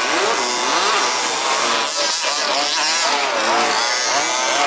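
Several 1/5th scale RC buggies' small two-stroke petrol engines racing together, each revving up and easing off in turn so that their rising and falling whines overlap.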